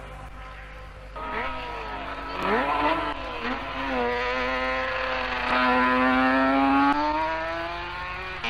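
Racing sidecar outfit engine at full throttle, getting louder about a second in as it nears. Its pitch dips and swoops through a couple of gear changes, climbs steadily as it accelerates, drops at another shift about seven seconds in, then climbs again.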